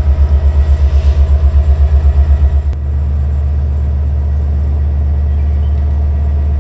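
Low rumble of a train, throbbing rhythmically about nine times a second at first, then changing abruptly, a little under three seconds in, to a steady rumble.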